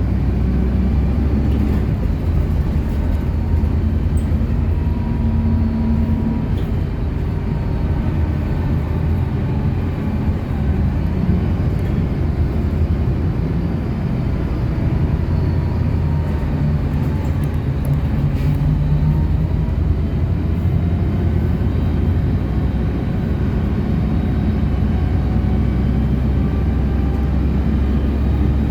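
City bus driving along: a steady low engine and road rumble, with the engine note shifting in pitch a few times as the bus changes speed.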